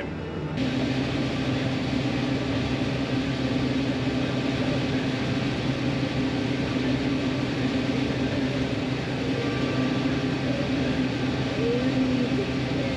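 Large diesel farm machine running steadily under harvest work, a constant low drone that holds an even pitch.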